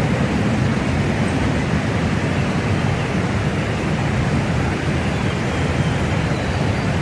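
Steady rushing of river rapids, an even, unbroken roar of water.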